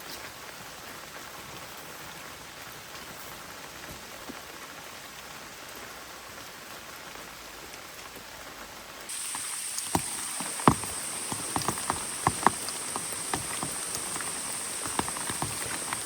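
Steady rain falling. About nine seconds in it switches abruptly to a louder rain sound with many close, separate drops tapping on a surface.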